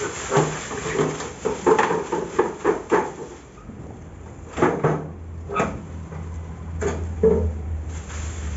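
Knocks and scrapes of a homemade tin dustpan as leaves are swept into it with a small broom: a quick run of about eight in the first three seconds, then a few spaced ones.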